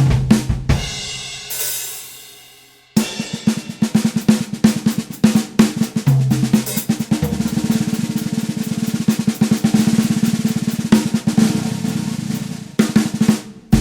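UMI snare drum played with rapid strokes and a long, fast roll. Near the start a ringing crash dies away over about two seconds before the playing resumes.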